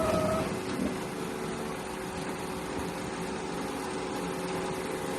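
A steady mechanical hum, like a motor running, with a few faint steady tones in it.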